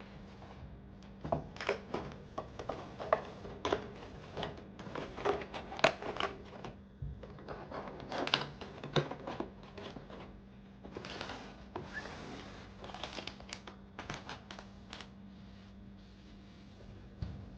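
Irregular crinkling and rustling, like packaging or paper being handled, with scattered sharp clicks, busiest in the first eleven seconds or so and thinning out after that, over a faint steady hum.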